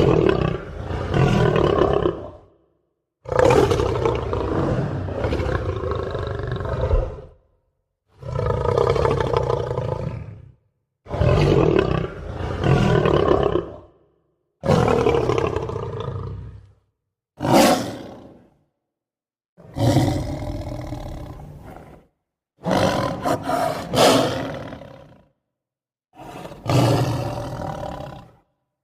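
A lion roaring: about nine separate loud roars, each one to four seconds long and fading off at the end, with complete silence between them.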